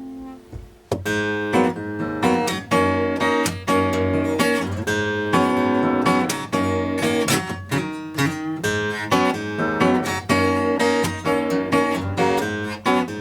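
Acoustic guitar playing an instrumental passage of rhythmic, strummed and plucked chords, coming in about a second in after a short pause.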